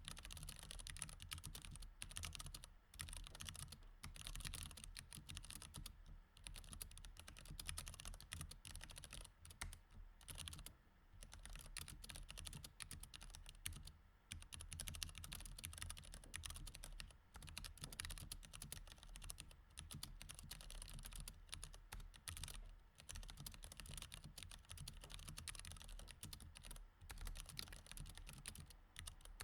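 Continuous quick typing on a mechanical keyboard with Cherry MX Red switches: a dense, quiet stream of key clicks, with a couple of brief pauses.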